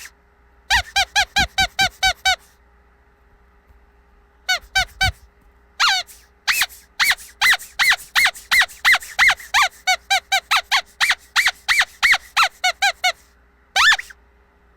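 Squeaky dog toy squeezed again and again, giving short, pitched squeaks in quick runs of about five a second with brief pauses between them. The longest run starts about six and a half seconds in and lasts several seconds.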